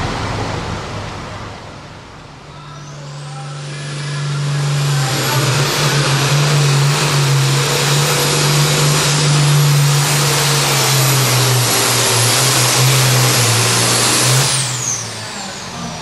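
Turbocharged diesel pulling tractor at full throttle during a hook: a high turbo whistle climbs in a couple of seconds in and holds over the steady engine note. Near the end both fall away quickly as the throttle comes off.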